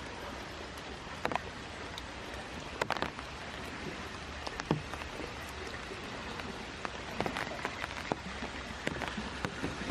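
Light rain falling steadily, with irregular sharper taps of drops landing on an umbrella overhead.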